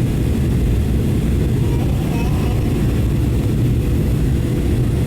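Boeing 737-800 in flight on approach: a steady, even roar of engine and airflow noise as heard inside the cabin.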